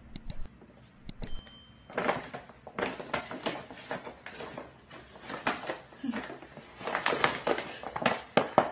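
Paper shopping bag rustling and crinkling in irregular bursts as a small dog is lowered into it and the bag is handled. A brief high-pitched tone sounds about a second in.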